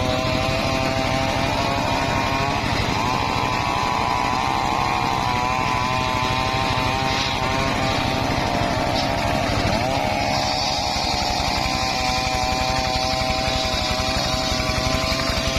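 Engine-powered wood saw running steadily, its pitch dipping briefly about three times.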